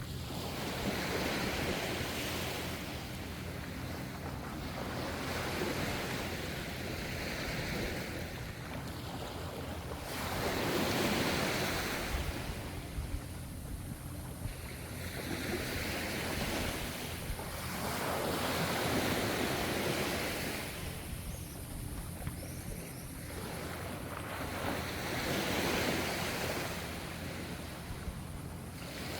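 Ocean waves washing ashore, each one swelling and falling away over a few seconds, about eight in a row.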